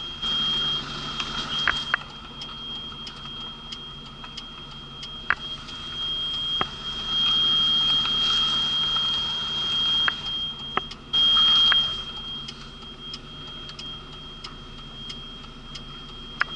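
Articulated lorry heard from the cab while reversing: the engine runs steadily under a continuous high-pitched warning tone, with scattered sharp clicks and a few stretches where the engine noise swells louder.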